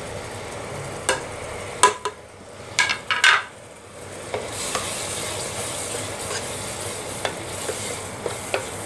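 Masala of onion and ginger-garlic paste frying in oil in a pressure cooker, with a few sharp knocks in the first three and a half seconds. From about four seconds in, a steady sizzle joins the scrape of a wooden spatula stirring the spices in.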